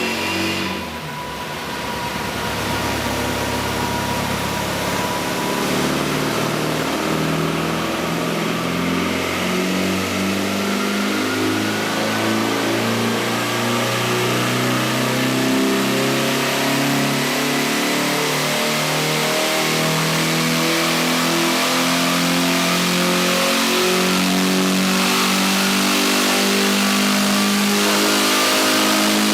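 Austin A50 race car's four-cylinder engine on a rolling-road dyno. Its revs drop briefly about a second in, then climb slowly and steadily through one long pull under load, a dyno power run.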